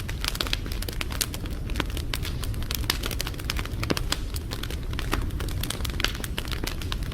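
Wood fire crackling: many irregular sharp snaps and pops over a steady low rumble of burning.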